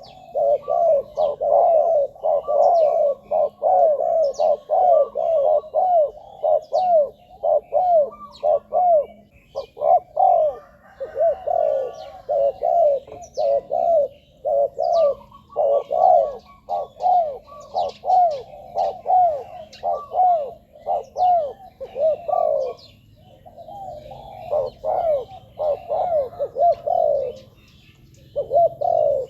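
Spotted doves cooing: long runs of quick, arching coo notes, with short breaks near the middle and toward the end, from decoy birds whose calls are used to lure wild doves. Faint chirps of small birds sound above them.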